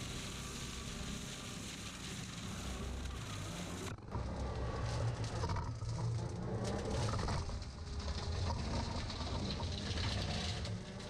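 Kubota L3200 tractor's diesel engine running steadily under work, with a constant low drone. The sound changes abruptly about four seconds in.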